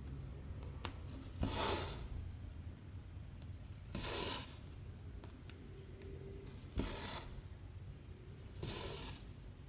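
Cotton embroidery thread drawn through 14-count cross-stitch fabric: four short rasping swishes, one every two to three seconds, with faint ticks of the needle between them.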